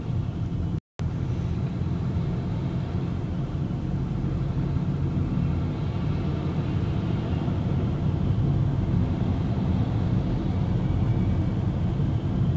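Car cabin road noise with the windows up: a steady low rumble of the car driving along the highway. The sound cuts out completely for a split second about a second in.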